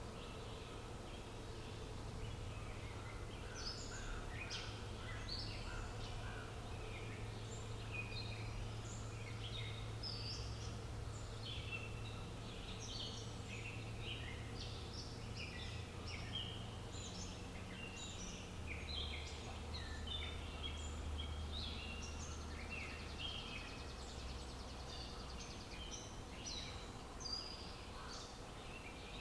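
Many songbirds chirping and singing at once, short overlapping calls all through, over a low steady rumble.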